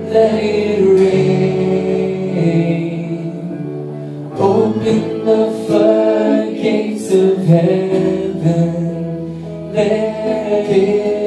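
Christian worship band playing with singing. It eases briefly about four seconds in, then swells again.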